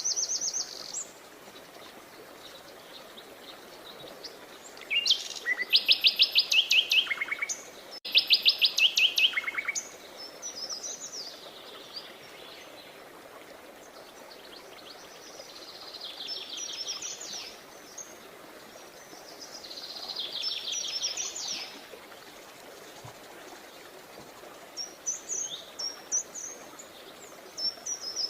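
Birds singing: four rapid trills of quickly repeated high notes, the first two loudest, with short high chirps at the start and near the end, over a steady background hiss.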